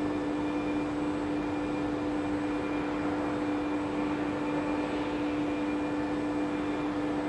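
Blue Elephant 1530 ATC CNC router running its automatic tool length measurement cycle: a steady machine hum with a constant low tone.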